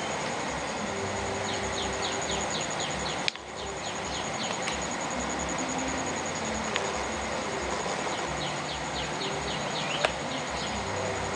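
Rural outdoor ambience: a continuous high-pitched insect trill with runs of short, quick chirps repeating several times a second, over a steady background hiss. A sharp click about three seconds in and another near the end.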